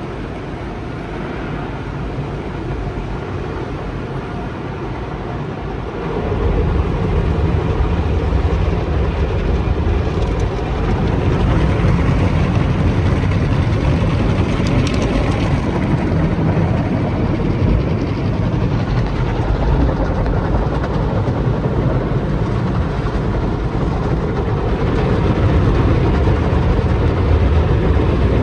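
Sonny's automatic tunnel car wash equipment working on the car, heard from inside the cabin: a steady rushing noise with a low rumble that gets louder about six seconds in.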